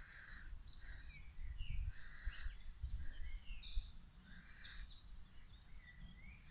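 Birds singing and chirping, several short calls overlapping, over a low, uneven rumble.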